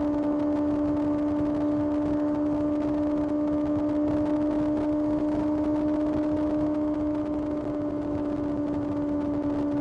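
Kawasaki ZX-6R's inline-four engine running at a steady, unchanging high pitch, held at constant revs while riding, with wind rush underneath.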